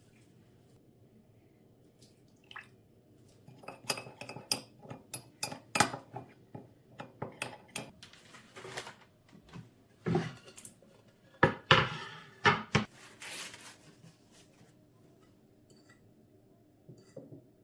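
Dishes and cutlery clinking and knocking against each other in a quick, irregular run of sharp clinks. The clinks start a few seconds in and stop a few seconds before the end, and are loudest in the latter half.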